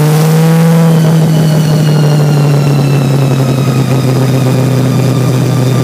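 Supercharged 427 big-block Chevy V8 in an Anglia gasser, heard from inside the cabin while driving. The revs climb until about a second in, then fall away slowly.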